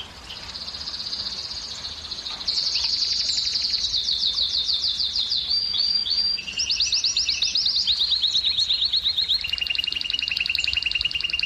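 Male canary singing a continuous song of rapid trills, each a fast run of repeated notes that switches to a new pitch and pattern every second or two.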